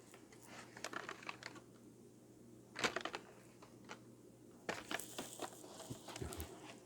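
Faint handling noise of die-cast toy cars and their packaging being moved about: scattered light clicks and crinkling rustles, with a louder cluster of clicks about three seconds in and more rustling near the end.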